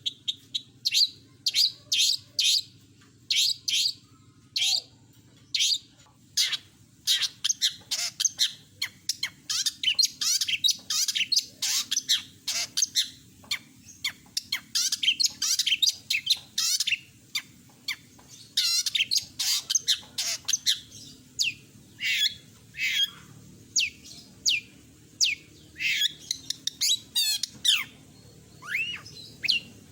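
Long-tailed shrike (cendet) singing a rapid, varied song of short chirps, trills and harsh squawky notes with only brief pauses. It is the bird's full song repertoire, full of mimicked phrases.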